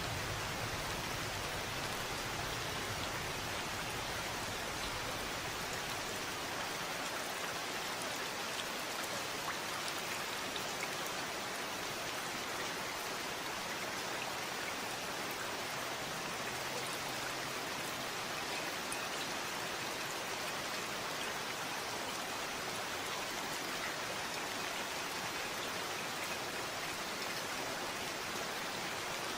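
Steady rain falling, a dense even patter of drops. A low rumble of thunder dies away over the first few seconds.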